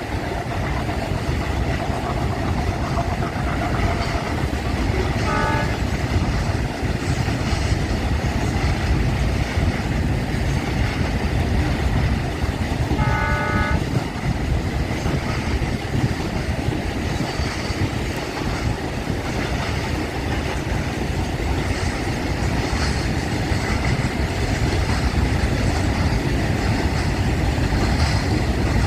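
Indian diesel freight train locomotive running with a heavy, steady low engine rumble as the train rolls; the locomotive horn sounds twice, a short blast about five seconds in and a longer one about thirteen seconds in.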